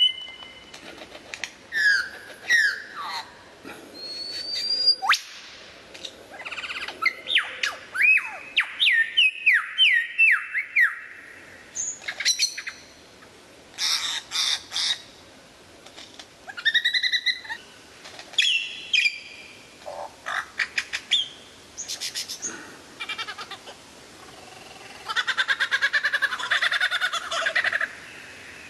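A string of different bird calls and songs: whistled notes that glide up and down, short chirps and squawks, a run of repeated rising whistles about a third of the way in, and a fast buzzy trill near the end.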